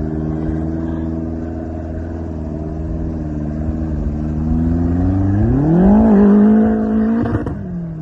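Engine running steadily, then revving up sharply a little past halfway, holding high for about two seconds and dropping off abruptly near the end.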